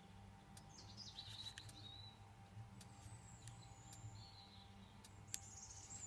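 Faint birds chirping over a low steady hum from running refrigeration condensing units, with a light click about five seconds in.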